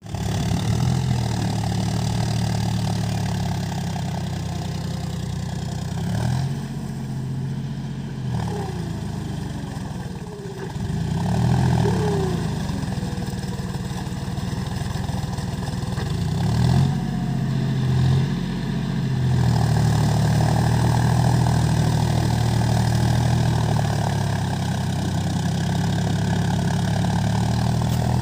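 John Deere 5050D tractor's three-cylinder diesel engine idling steadily, revved up and back down briefly about three times, roughly six, eleven and seventeen seconds in.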